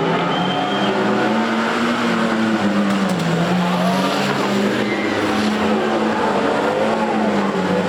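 Engines of several race cars running hard, their pitch rising and falling as they rev.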